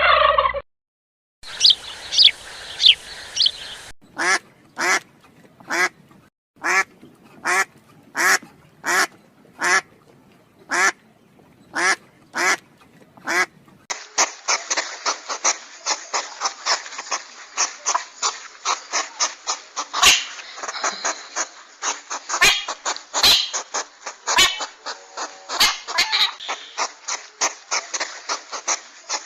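Ducks quacking, in a few spliced clips: first a string of single quacks repeated at a steady pace, then, about halfway through, many overlapping quacks from a flock.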